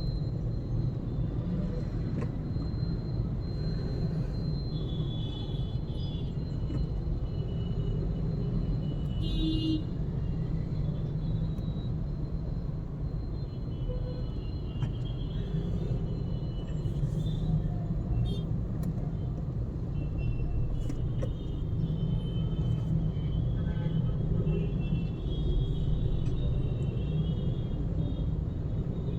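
Steady low rumble of a car's engine and road noise heard from inside the cabin, moving through slow traffic.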